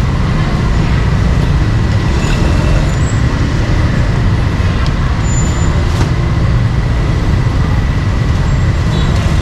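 Steady low rumble of street traffic, with a thin steady whine and a few faint clicks over it.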